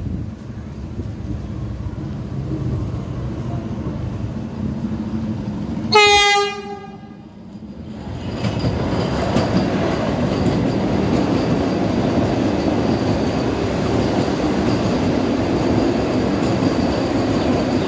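A Vande Bharat Express electric multiple unit approaching at speed gives one short horn blast about six seconds in. It then rushes past with a steady, loud rolling noise of wheels on rail.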